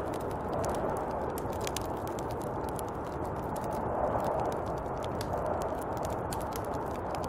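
Snowstorm wind blowing steadily, with scattered small crackling clicks throughout.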